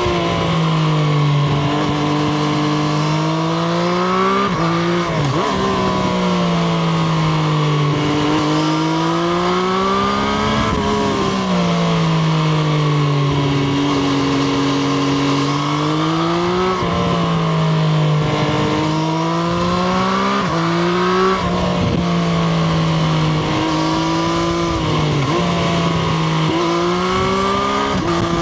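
Triumph Street Triple RS's 765 cc three-cylinder engine heard on board while riding, its pitch repeatedly dropping off and climbing again, with several abrupt pitch jumps from gear changes, over steady wind rush.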